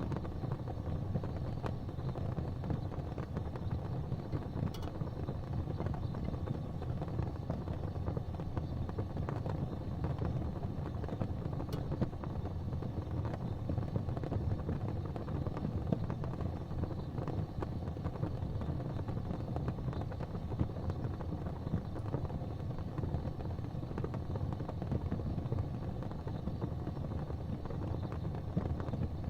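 Gas fireplace flames burning steadily: an even, low rumbling hiss with a couple of faint crackles.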